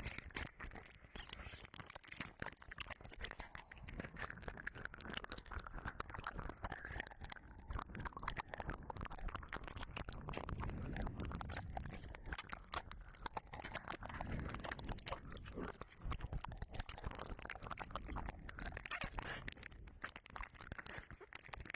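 Wet licking and mouth sounds right at the ear of a 3Dio binaural dummy-head microphone: a dense, unbroken run of small wet clicks and smacks.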